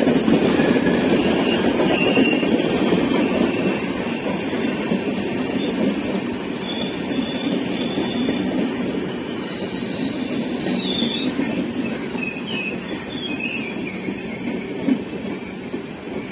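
Indian Railways express train coaches rolling past along the platform, a steady rumble of wheels on rail that slowly fades. Thin high-pitched squeals come in over the last few seconds.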